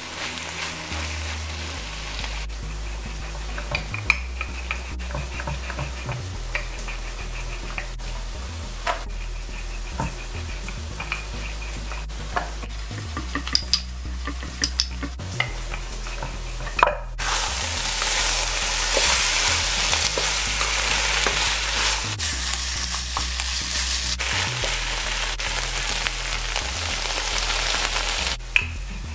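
Stewed saltfish sizzling in a nonstick wok while a spatula stirs it, with scattered clicks and scrapes of the spatula against the pan. The sizzling turns louder a little past halfway and stays so until near the end.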